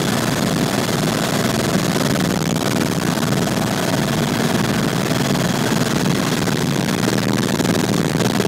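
Helicopter in steady flight heard from on board: a constant, loud drone of rotor and engine with a faint steady whine running through it.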